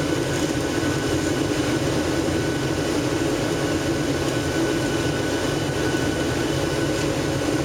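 Steady cabin noise of a Boeing 737-700 airliner heard from inside: an even drone of engines and rushing air that holds level throughout.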